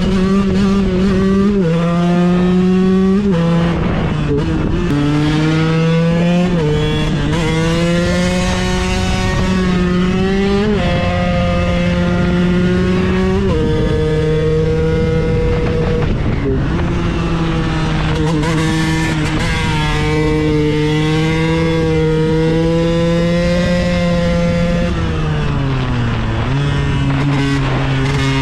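KTM 125 EXC supermoto's two-stroke single-cylinder engine running hard under way, its pitch repeatedly climbing and dropping with throttle and gear changes, with a deeper dip and recovery near the end.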